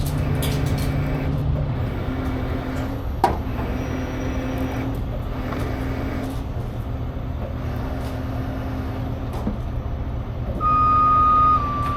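Heavy tow truck's diesel engine running steadily during a lift, its low hum shifting in pitch now and then. A knock sounds about three seconds in, and a louder high steady tone lasts about a second near the end.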